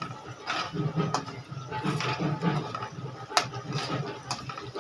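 Potatoes frying in hot oil in a kadhai, a steady sizzle, with a few sharp utensil clicks: one about a second in and two near the end.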